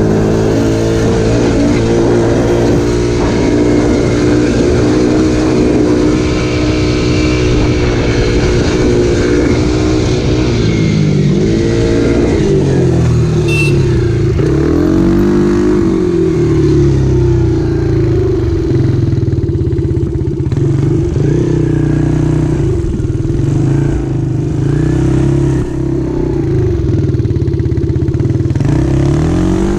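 Dirt bike engine running as the bike is ridden, its pitch steady for a while, then dropping and climbing again several times as the throttle is rolled off and opened back up.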